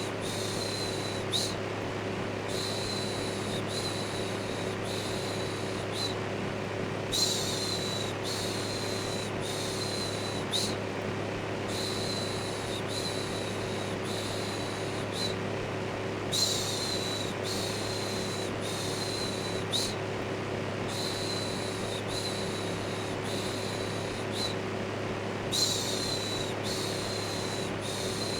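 An electric fan runs steadily with a low hum. Over it, a rhythmic series of soft "shhh" shushing sounds comes roughly one a second in runs of four or five, with short pauses between the runs.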